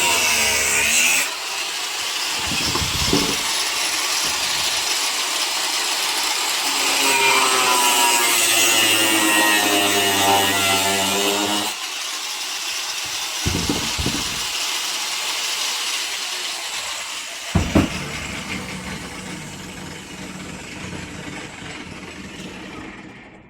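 Washing machine motor and drum running with a loud hiss and a whine that rises and falls in pitch, broken by a few knocks, then winding down and fading near the end.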